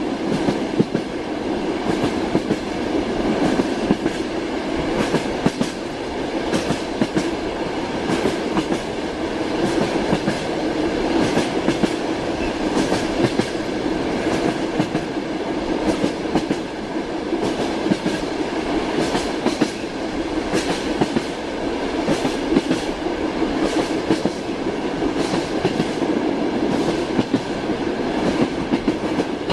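Train running on rails: a steady rumble with the clickety-clack of the wheels over the rail joints, heard as frequent sharp clicks.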